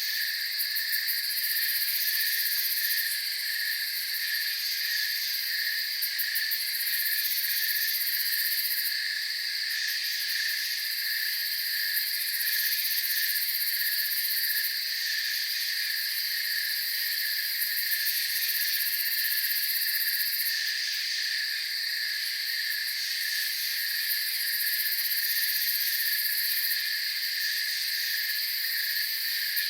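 Night chorus of crickets and other insects chirping steadily, with one evenly pulsing chirp and a very high, shrill trill that comes and goes every few seconds.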